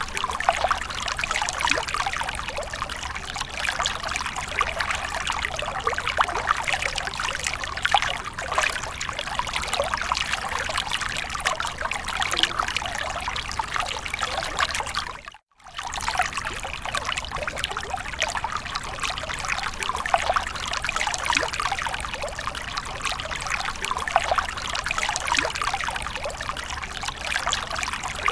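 Water splashing and trickling steadily, a dense patter of many small splashes. It cuts out for a moment about halfway through, then carries on the same.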